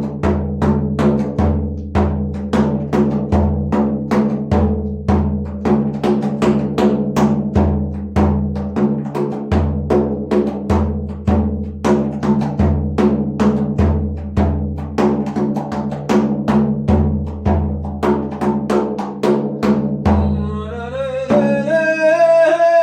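Improvised music: a quick, steady drumbeat over a low sustained drone that shifts pitch every second or so. Near the end the drumming stops and a held, ringing tone slides up in pitch and holds.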